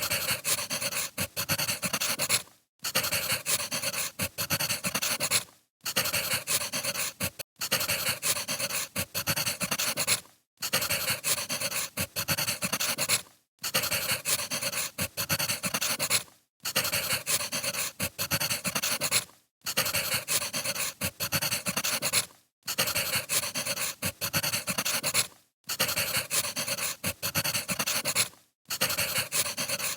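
Wood fire crackling, a dense run of pops and snaps, broken by a brief silent gap about every three seconds, as in a repeating recorded loop.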